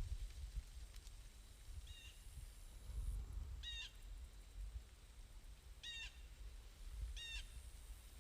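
A bird calling four times in short, harsh calls, the first fainter, over a low steady rumble.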